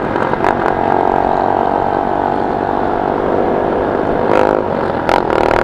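Motorcycle engine running steadily under way, holding an even pitch, with a few short buffets near the end.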